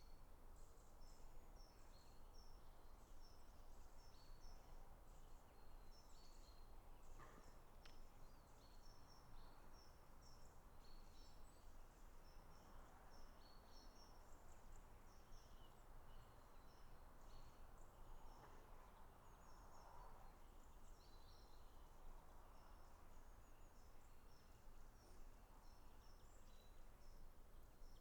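Faint birdsong: many short, high chirps from small birds all through, over a quiet low rumble.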